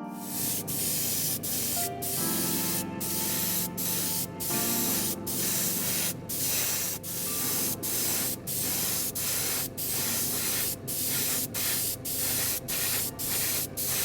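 Paint spraying in short, rapid bursts, cut off and restarted about twice a second, with music playing underneath.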